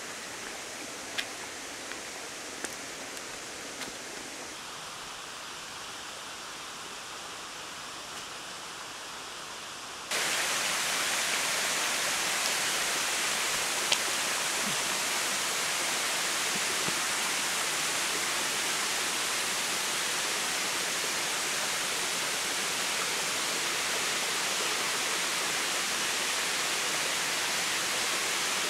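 Waterfall's steady rush of falling water, fainter at first, then abruptly much louder about ten seconds in. A few light clicks sound in the first few seconds.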